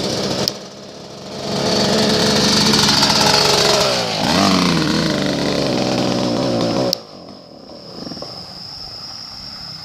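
Small dirt bike engine running with a weed-eater-like sound, briefly dropping off, then revving louder, its pitch dipping and climbing again about four seconds in. It stops suddenly about seven seconds in, leaving a quieter steady hum.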